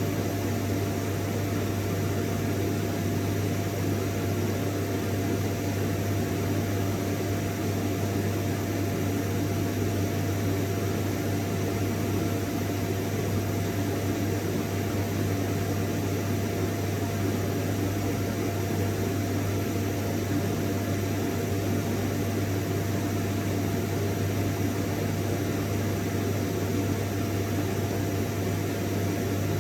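Vacuum cleaner running steadily: a constant rush of air over a low motor hum with a thin steady whine, unchanging throughout.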